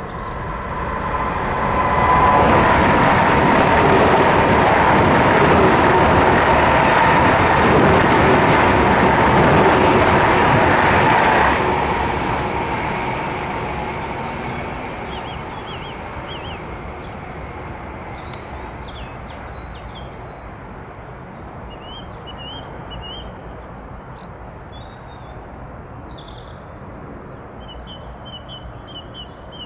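High-speed train passing at speed on the High Speed 1 line: a rushing roar that builds over about two seconds and holds steady. About eleven seconds in it cuts off sharply, then dies away over a few seconds while birds chirp.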